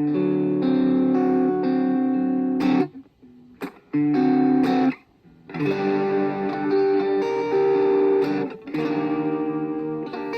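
Washburn Sonamaster electric guitar playing sustained chords that ring out and change. The chords are cut off twice, about three and five seconds in.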